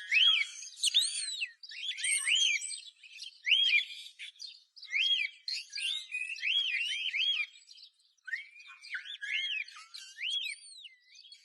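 Bird song: quick arched whistled notes and chirps, sung in phrases of a second or two with short gaps between them.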